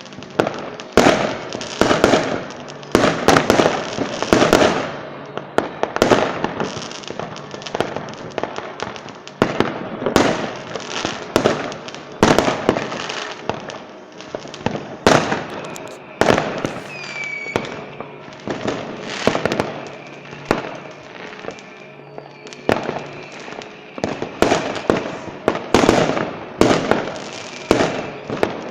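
Aerial fireworks display: a dense run of shell bursts, sharp bangs coming one or two a second with crackling tails, and a brief whistle about halfway through.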